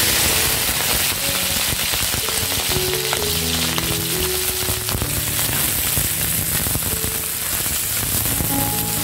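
Rice-field snails in their shells frying in hot oil in a wok: a loud, dense sizzling and crackling. Background music plays under it.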